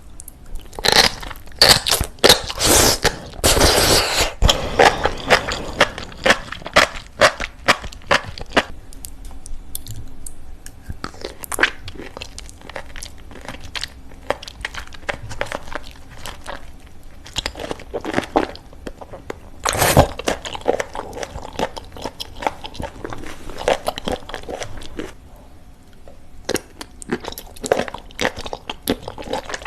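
Close-up eating of crunchy seafood: repeated crunching bites and chewing, with a dense spell of crunches a few seconds in and another about two-thirds of the way through.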